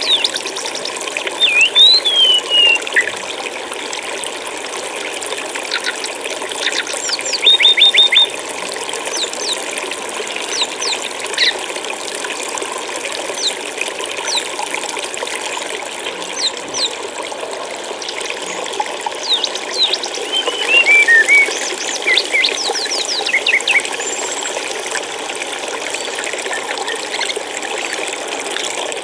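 Steady rush of flowing water, like a stream. A small songbird sings over it in short bursts every few seconds: quick runs of high chirps and brief falling whistles.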